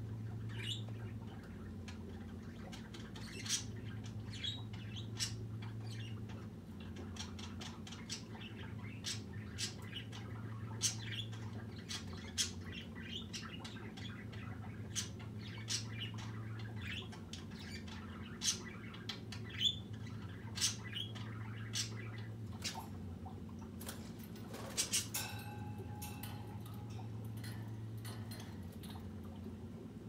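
Caged pet bird making scattered short chirps and clicks, with one longer, louder call near the end, over a steady low hum that swells and fades every few seconds.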